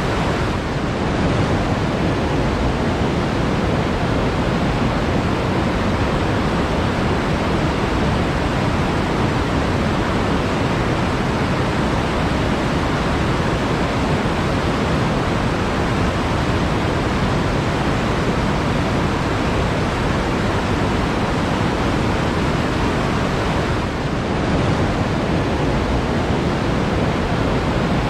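Flowing water rushing steadily, an even unbroken wash of sound like a forest stream or small waterfall.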